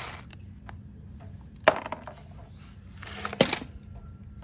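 Sharp clicks and handling noises from the minibike carburetor being opened up: two distinct clicks, one in the middle and one near the end, with a brief hiss just before the second.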